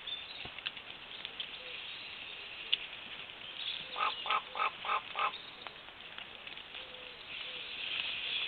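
Griffon vultures calling while feeding: five quick calls in a row about halfway through, over a steady high background hiss.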